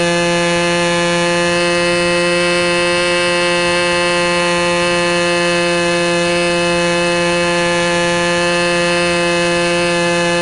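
Electric motor and propeller of an RC model plane at steady throttle, heard close up as a loud buzzing drone that holds one pitch.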